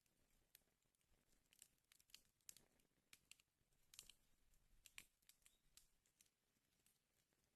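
Faint wood fire crackling in a fireplace, with irregular sharp pops and snaps over a low hiss.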